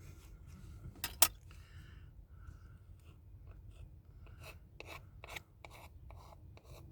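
Metal nail file scraping and rubbing soaked paper off a surface in short strokes, with two sharp clicks about a second in.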